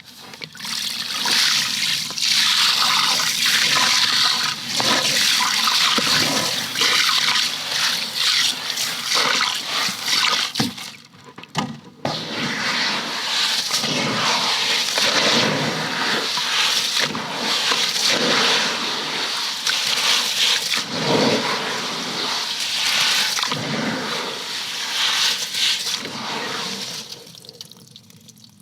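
Rushing, splashing water, with a brief break about eleven seconds in and fading near the end.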